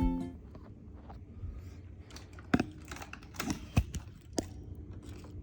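Light, irregular clicks and taps of kitchen prep work, with a few sharper knocks about halfway through; the tail of an acoustic guitar intro fades out at the very start.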